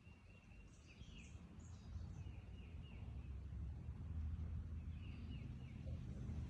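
Faint background birds chirping in short repeated calls over a low steady rumble.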